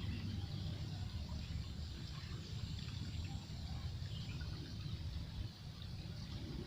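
Riverside ambience: a steady low rumble with an even hiss of moving water and a few faint bird or insect chirps.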